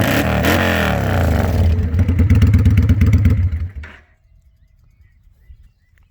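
2003 Kawasaki Vulcan 800's V-twin engine running, revved up briefly near the start and dropping back to a steady pulse, then switched off about three and a half seconds in. A few faint chirps follow.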